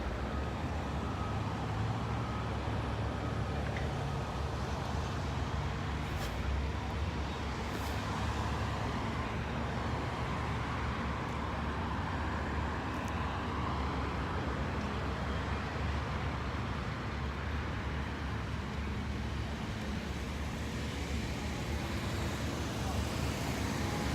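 Road traffic noise: a steady low rumble of vehicles on the street, with cars passing by.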